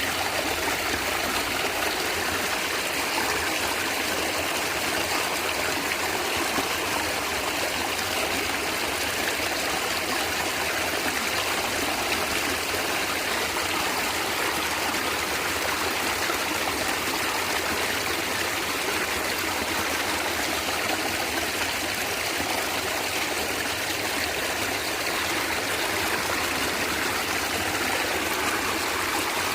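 Natural stream water running and gurgling steadily over stones.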